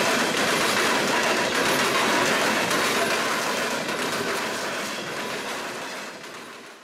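Loaded freight hopper cars rolling past close by: a steady rushing rumble of steel wheels on rail with rattling clatter. It fades away over the last two seconds or so.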